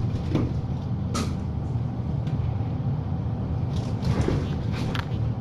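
A steady low hum with a few scattered light clicks and knocks, about a second in and again around four to five seconds in.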